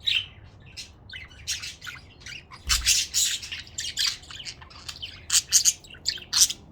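Budgerigars chattering, a rapid, irregular run of short scratchy chirps and squawks.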